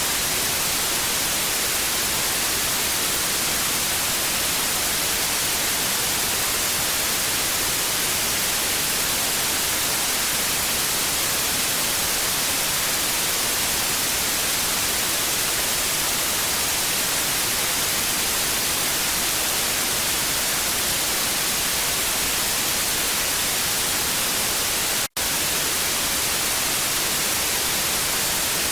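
Television static: a steady, even hiss, brightest in the treble, with a split-second dropout to silence near the end.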